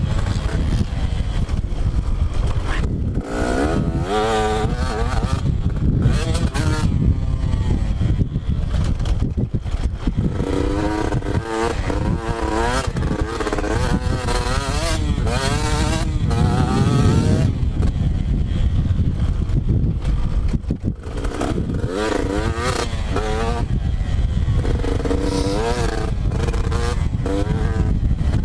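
Two-stroke motocross dirt bike being ridden hard, its engine pitch repeatedly climbing and dropping as the throttle is opened and shut through corners and straights.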